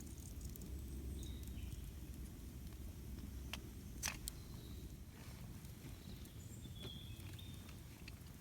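Campfire crackling: scattered sharp pops of burning wood, the loudest about four seconds in, over a steady low rumble. Faint high chirps come in about a second in and again near seven seconds.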